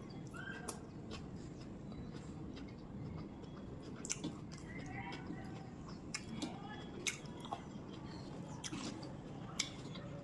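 Close-up eating sounds of rice and curry being chewed, with wet mouth smacks and a few sharp clicks scattered through.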